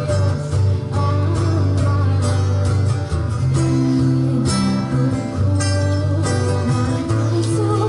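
Live street music: a strummed acoustic guitar playing chords over a steady low bass line, with no clear singing.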